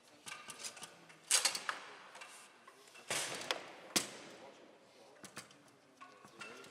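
Foosball play: the ball clacking against the table and the players' figures, with rods sliding and rattling in their bearings, and a few hard knocks, the sharpest about four seconds in.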